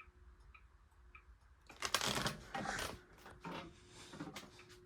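A clock ticking evenly, a little under twice a second, over the faint steady hum of an SMC A52 ceiling fan running at its slowest speed. About two seconds in comes a burst of rustling, clattering handling noise, the loudest sound here, with a few smaller rustles after it.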